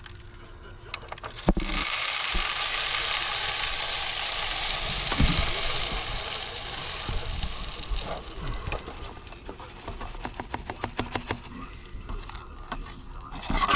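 Bird seed being poured into a bird feeder: a steady rush of seed for several seconds, then scattered ticks and clicks as the last seeds trickle in and settle.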